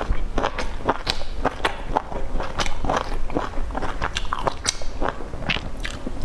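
A person chewing food close to the microphone: an irregular run of short mouth clicks, several a second.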